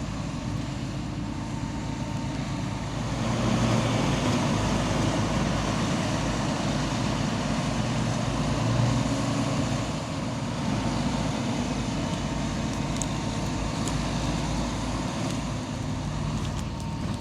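A heavy farm vehicle's engine running under load in soft mud. It grows louder about three seconds in and eases off a little later.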